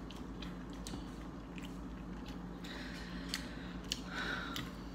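Close-up chewing with soft, wet mouth smacks, in scattered small clicks, over a steady low hum.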